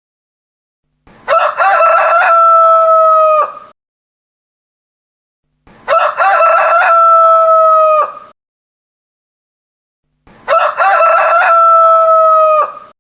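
A rooster crowing three times, about four and a half seconds apart. Each crow has a broken, stuttering opening, then a long held final note that drops in pitch and cuts off.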